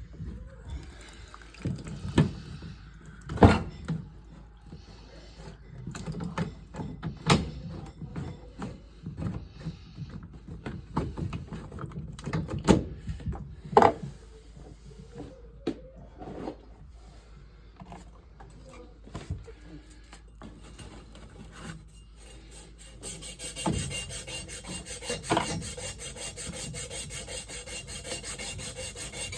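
Scattered knocks and clanks of hand work on fittings, then about three-quarters of the way in a steady, fast rasping rub starts, like filing or sawing.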